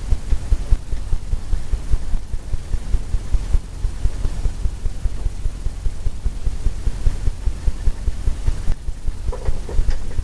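Rapid, irregular low thumps, several a second, from a brush dabbing paint onto a canvas on an easel, over a low hum.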